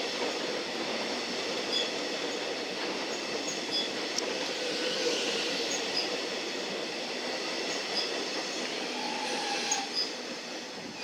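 Metro Melbourne electric suburban train running past on the rails: steady wheel-on-rail noise with light intermittent clicks, easing off near the end.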